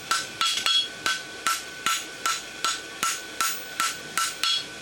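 Steady hammer blows on a white-hot steel bar shoe over an anvil, about three strikes a second, each with a short metallic ring from the anvil. This is a forge weld: the fluxed scarf joint of the bar is being hammered together.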